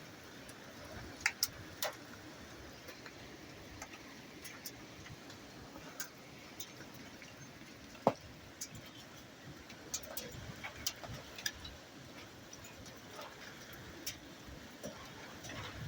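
Wind-driven rain: a steady hiss of rain and wind, with scattered sharp taps of drops striking a hard surface.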